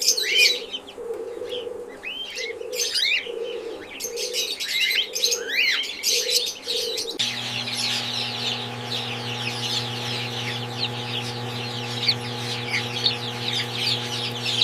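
Cockatiels chirping, with a soft low sound pulsing about every two-thirds of a second. About seven seconds in, the sound changes abruptly to a dense chatter of many chirping birds over a steady low hum.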